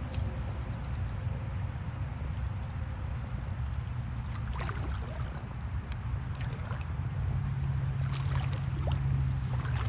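Creek water with light splashing from wading in the shallows, a few short splashes about halfway through and near the end, over a steady low rumble.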